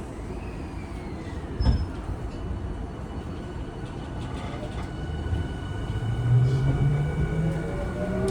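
Tokyu 5000-series motor car with a Hitachi IGBT-VVVF inverter and TKM-98 traction motors, heard from inside the car. About four seconds in, the inverter and motor whine starts and climbs in pitch as the train accelerates. A single knock comes about one and a half seconds in.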